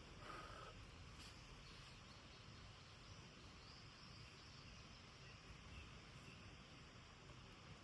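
Near silence: faint outdoor ambience, with a few faint short tones and a faint tick about a second in.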